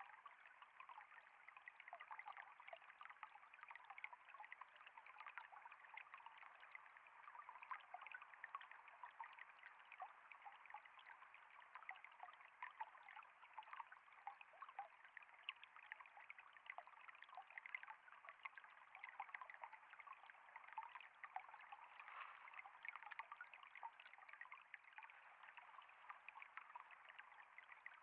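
Water trickling and flowing steadily, a faint, even babble of many small splashes.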